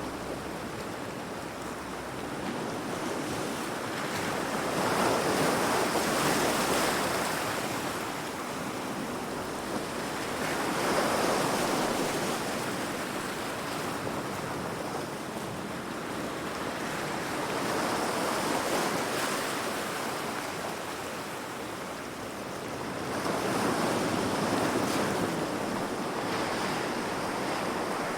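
Heavy sea waves breaking against rocks. The surf swells and crashes four times, several seconds apart, with a steady rushing wash in between.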